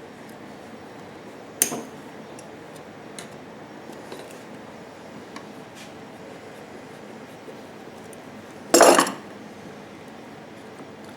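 Small tools and plastic parts being handled: faint scattered ticks, a sharp click just under two seconds in, and a louder short rasp about nine seconds in.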